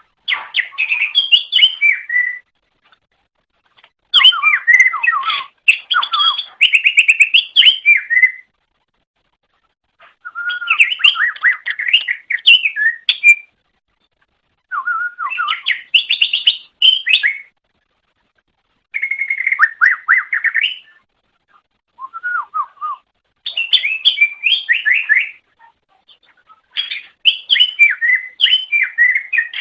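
Greater green leafbird (cucak ijo) singing: about nine bursts of rapid, varied whistles and chattering notes, each one to four seconds long, with short pauses between them.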